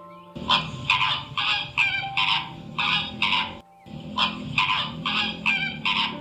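Domestic fowl calling in a quick series of raspy calls, about two a second, with a brief pause partway through.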